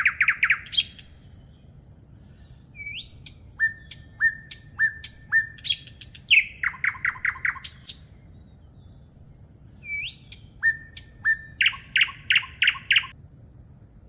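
A songbird singing in repeated phrases: fast runs of short down-slurred notes, held whistles that drop off, and quick rising notes, in three bursts with pauses between. The singing stops about a second before the end.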